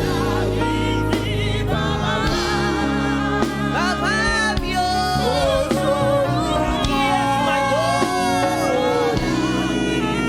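Live gospel praise-and-worship music: singing with wavering, sliding vocal lines over held instrumental chords and a steady bass.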